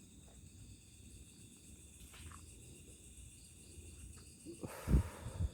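Crickets and other night insects chirring steadily. About five seconds in comes a brief, loud, muffled rustle or puff close to the microphone.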